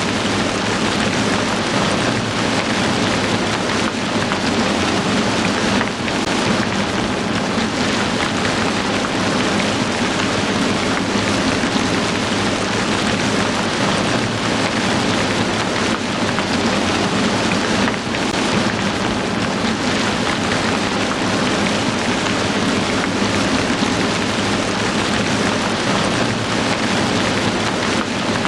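Heavy rain falling in a steady, dense downpour, an even hiss with no pauses.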